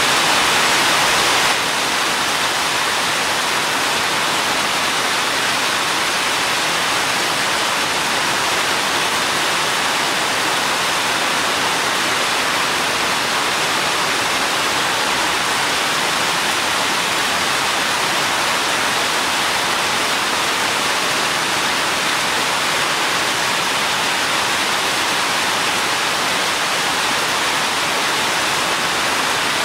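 Steady rain, a dense even hiss with no separate drops standing out; the level drops slightly about a second and a half in and then holds.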